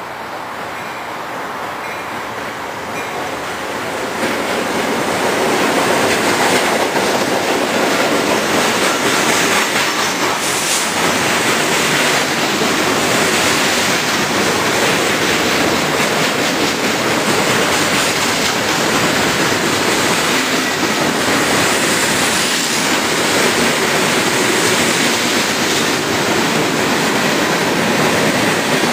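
CSX freight train passing close by: it grows louder over the first five seconds as the locomotives draw near and go past, then the freight cars roll by with a steady rumble and rattle of wheels on the rails.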